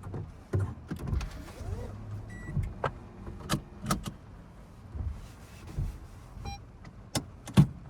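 A string of clicks and knocks in a car's cabin as its controls and fittings are handled, with a short electronic beep about two and a half seconds in and another about six and a half seconds in. The loudest knock comes near the end.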